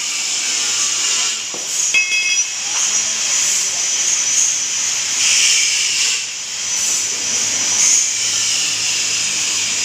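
Plate rolling machine running as it rolls steel plate: a steady hissing machine noise, with a brief high squeal about two seconds in.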